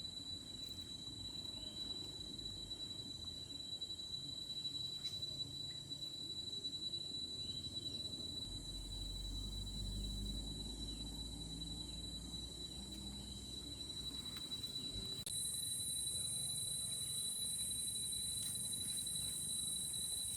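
Rainforest insects, cicada-like, keeping up a steady high-pitched drone, with a still higher band that gets louder about fifteen seconds in and faint repeated chirps beneath. A low rumble runs through the middle.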